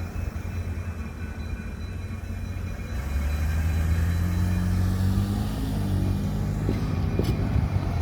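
Diesel-electric freight locomotive pulling away: a low engine rumble that swells about three seconds in, with the engine note climbing as it throttles up. A short sharp click comes near the end.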